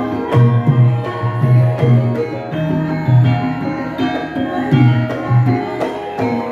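Javanese gamelan ensemble playing a gending: many struck metal notes ringing and overlapping over repeated low struck tones.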